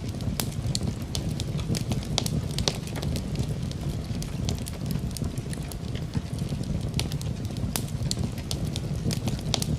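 Wood fire crackling in a fireplace: frequent sharp, irregular pops and snaps over a steady low rumble of the burning fire.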